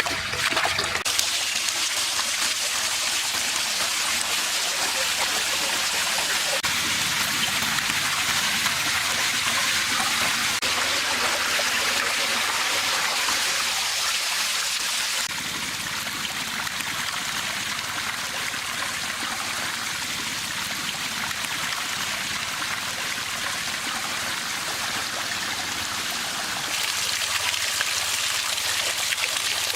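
Water from a small artificial waterfall running and trickling steadily, a constant splashing hiss. It drops a little in level about halfway through and rises again near the end.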